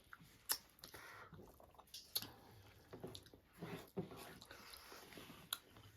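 Close-up mouth sounds of eating: chewing with scattered sharp lip smacks and clicks.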